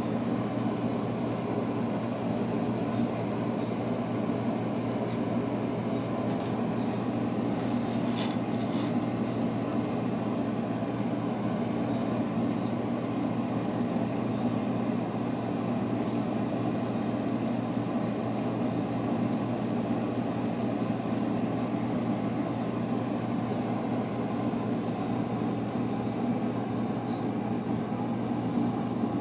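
Steady low machine hum, with a few faint ticks about five to nine seconds in.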